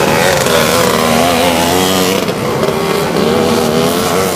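Engines of vintage twin-shock motocross bikes racing on the track, their pitch rising and falling over and over as the riders work the throttle.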